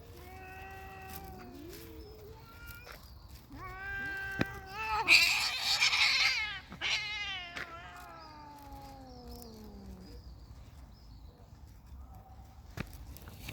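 Cats caterwauling in a fight: long, drawn-out wavering yowls, then about five seconds in a loud burst of screeching as they clash, followed by more yowls sliding down in pitch. The last few seconds are quieter.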